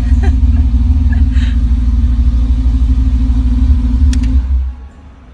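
A car's engine running with a loud, deep, steady rumble that drops away abruptly about four and a half seconds in.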